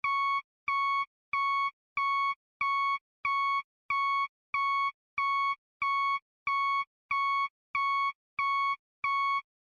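Vehicle reversing alarm beeping in a steady rhythm: clean electronic beeps of one pitch, each about half a second long, roughly one and a half a second, with complete silence between them.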